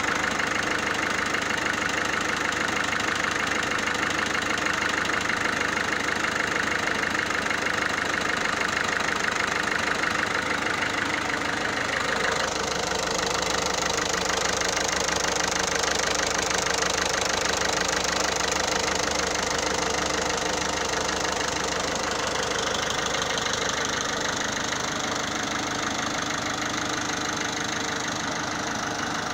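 Peugeot 308 1.6 HDi four-cylinder turbodiesel idling steadily with an engine noise that several mechanics, including a Peugeot dealer who is 80% sure, put down to a failing flywheel; another mechanic calls it normal for this engine. The sound changes abruptly about twelve seconds in.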